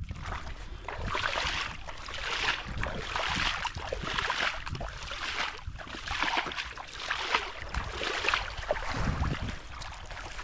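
Footsteps on beach sand, about one step a second, with wind rumbling on the microphone.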